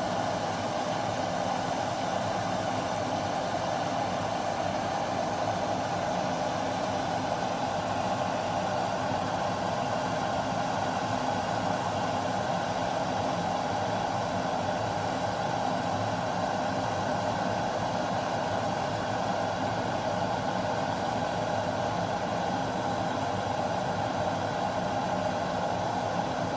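Glass electric kettle heating water: a steady rushing, rumbling noise that holds even throughout.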